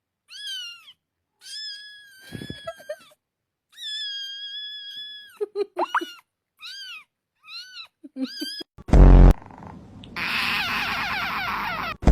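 A cat giving a run of high-pitched meows, each rising and falling in pitch, some short and some drawn out, with a few quick short ones near the middle. About nine seconds in comes a loud, short, deep blast, followed by a rough steady noise.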